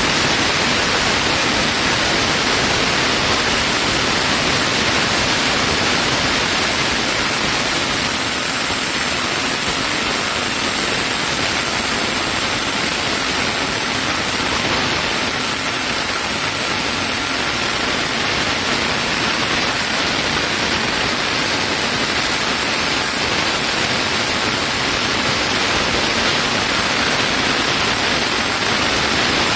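Band sawmill cutting a chinaberry log, a loud steady hiss with no break.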